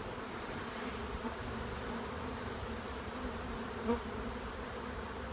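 Honeybee colony buzzing steadily: a mass of bees on an open hive frame, stirred up as they are pushed to move during an inspection.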